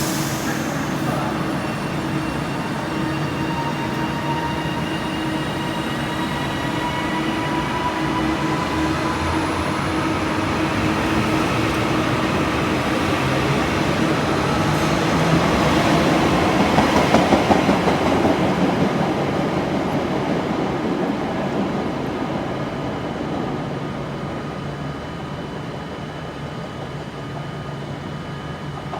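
A train moving through the station, with steady motor tones over its running noise; it grows louder to a peak a little past the middle and then fades.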